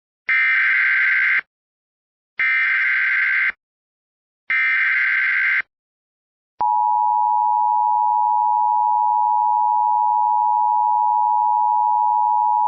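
Emergency alert broadcast: three short buzzing digital header bursts about a second apart, then a steady, loud attention tone that begins about halfway through and holds. This sequence signals a weather warning about to be read.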